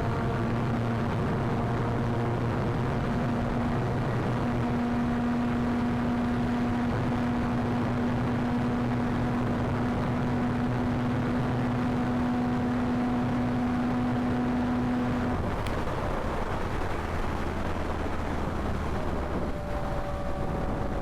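Yamaha MT-09 inline-triple engine pulling at a steady throttle under heavy wind rush. About fifteen seconds in the throttle closes, the engine note drops away, and mostly wind noise is left.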